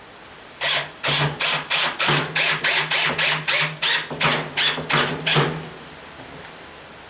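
A power drill/driver working a fastener in about fourteen short, loud bursts, roughly three a second, over a steady low motor hum. The bursts stop just before the last second.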